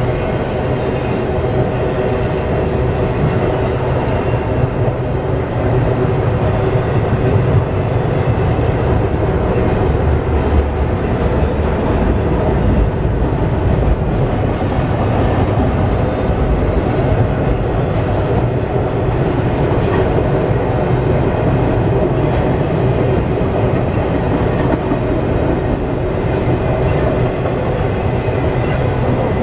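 Double-stack intermodal container cars rolling steadily across a steel girder bridge: a continuous loud rumble of wheels on rail. Brief high wheel squeals come and go in the first several seconds.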